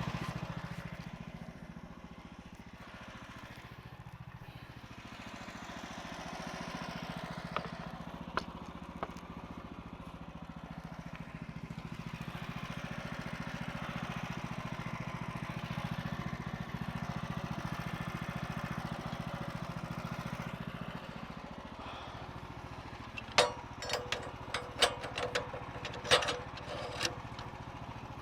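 Sawmill's 14 HP Kohler engine running, its pitch dipping and rising a few times. Near the end comes a cluster of sharp knocks.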